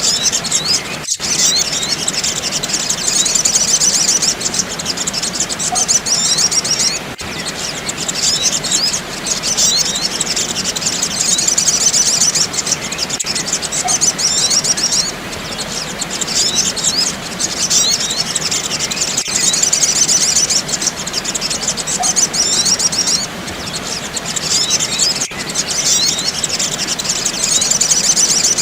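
Recorded sunbird song: dense, rapid high twittering and chirping from several birds, with brief gaps about every six seconds where the recording loops.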